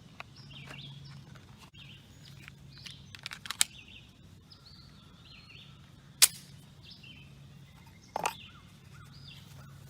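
Small songbirds chirping on and off over a low steady hum. A few sharp clicks come about three and a half seconds in, a single sharp snap a little after six seconds, and a short knock about eight seconds in.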